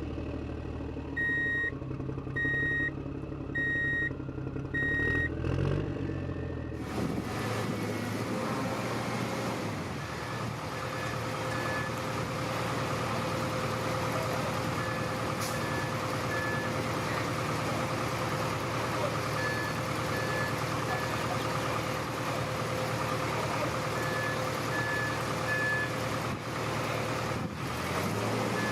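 Radio-controlled toy construction vehicles: four electronic reversing beeps over a low simulated engine rumble. From about seven seconds in, a steady electric-motor whirring takes over, with short groups of fainter beeps now and then.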